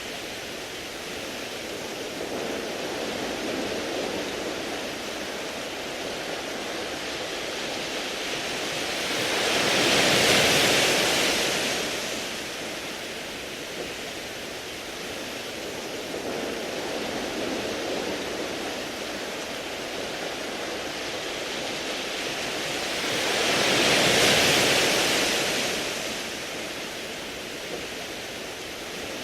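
Sea waves washing over a beach of round pebbles, a continuous wash that swells into two bigger surges, about ten seconds in and again near the end.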